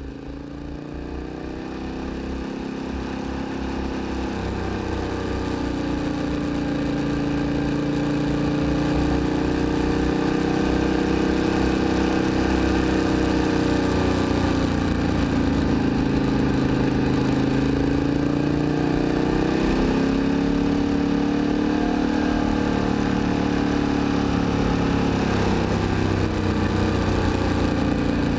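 KTM 1290 Super Adventure's V-twin with an Akrapovic exhaust, heard from the rider's seat under way. Its note rises and falls repeatedly as the throttle is opened and closed through the bends, over a steady rush of wind. The sound fades in over the first several seconds.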